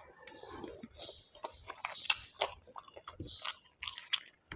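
Close-up chewing of a mouthful of rice and curry: irregular wet smacks and small clicks from the mouth, several to a second.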